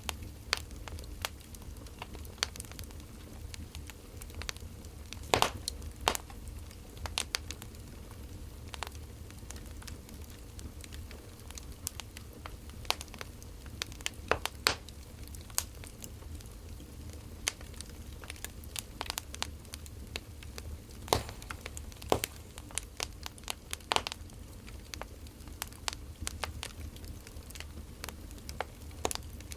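Wood fire crackling: irregular pops and snaps, a few louder than the rest, over a low steady rumble.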